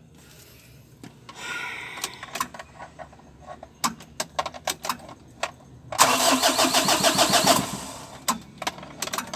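Mitsubishi L300's 4D56 diesel engine being cranked by the starter, a burst of about a second and a half some six seconds in and again just before the end, after a few light clicks. The engine is hard starting and is cranked after its fuel line was primed and bled.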